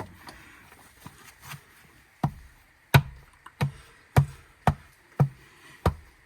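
A hand smacking the spokes of a new hubcap to snap it onto a Toyota wheel: a few lighter knocks, then from about two seconds in a steady run of about seven sharp hits, a little over half a second apart.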